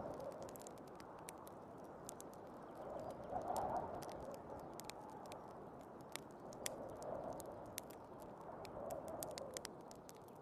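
Wood fire crackling with irregular sharp pops, over the steady rush of storm wind that swells and eases every few seconds.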